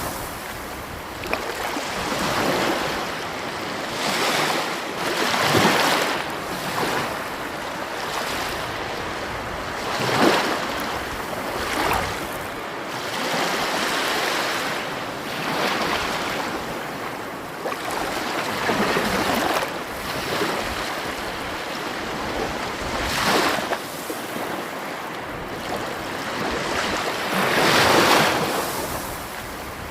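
Sea waves washing onto the shore, each surge swelling and fading every few seconds.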